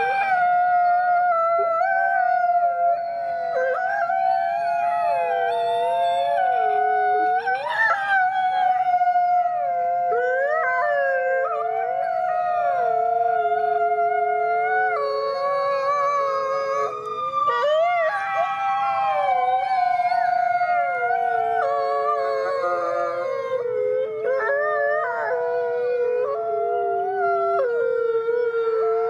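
A chorus of several canines howling together, long overlapping howls at different pitches that rise, fall and hold.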